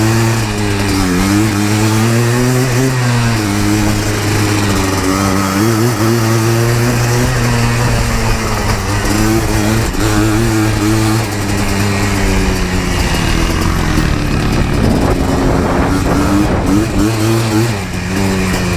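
Yamaha Blaster 200 ATV's two-stroke single-cylinder engine revving up and down repeatedly while riding, with wind rushing over the microphone.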